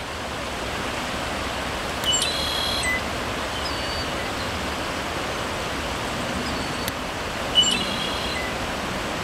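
Steady rushing outdoor background noise, with a small bird calling twice, about five seconds apart, and a couple of faint short whistles in between.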